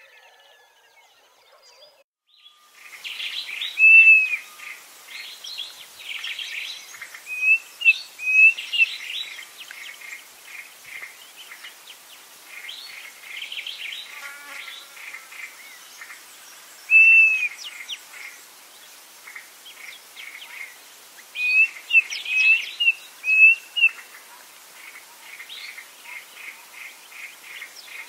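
Several birds calling in chorus: repeated short arched whistled notes and runs of rapid dry trills, starting suddenly about three seconds in.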